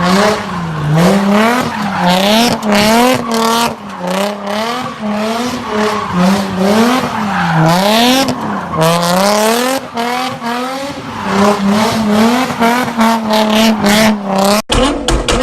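High-revving performance car engine swinging up and down in pitch over and over, about once a second, with tyre squeal and sharp exhaust pops, as when a car is drifting. It cuts off sharply near the end.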